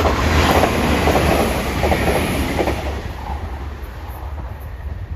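Northern Ireland Railways Class 4000 diesel multiple unit passing close by, a deep rumble of engine and wheels on the rails, loudest in the first couple of seconds and then fading as it draws away.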